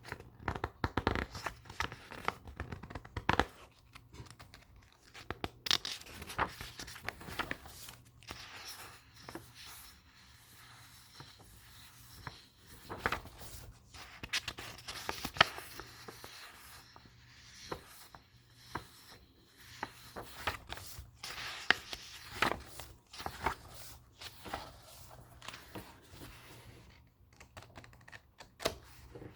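Paper book pages being turned and handled: crisp rustles and small ticks that come in irregular clusters, busiest in the first few seconds.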